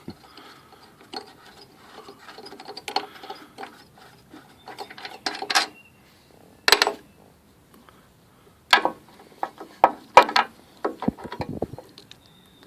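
Socket ratchet wrench clicking in irregular spells as it works on the mower engine, with a few sharper metal knocks and clanks of the tools between.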